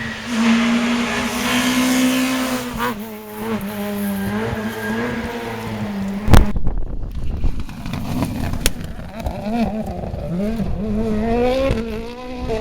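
Rally car engine running hard, its pitch climbing and dropping through gear changes. About six seconds in there is a single loud bang. After it the engine revs rise and fall, then climb near the end.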